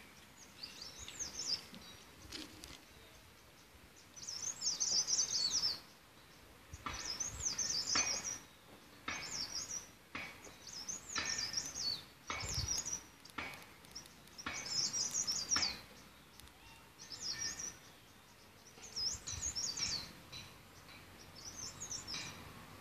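A songbird singing: short, high, warbling chirped phrases repeated every couple of seconds.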